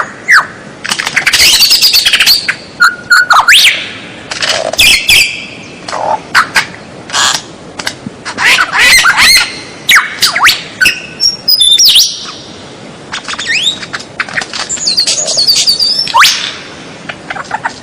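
Bird song in loud, rapid bursts: sharp clicks, quick sweeping whistles and harsh squawky notes tumbling together, with short pauses between phrases.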